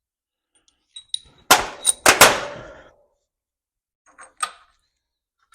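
Metal clanging: a couple of light, ringing metallic clinks about a second in, then three loud metal impacts in quick succession with a brief ringing tail, and a few faint clinks near the end.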